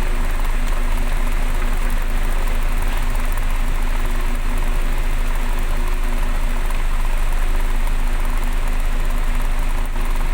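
Vehicle engine running steadily with a low hum, under the constant hiss of heavy rain.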